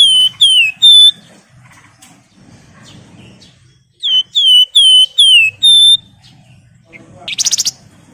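Javan fulvetta singing: two phrases of loud, clear whistles, each a quick run of slurred downward notes ending on a short held note, the second phrase starting about four seconds in. Near the end comes a brief buzzy rattle.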